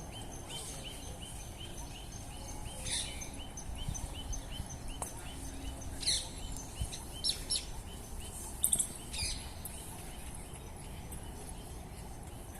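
Birds calling outdoors over a steady low background rumble. One bird repeats a short note about three times a second for the first half, while others give sharp, falling chirps now and then through the middle.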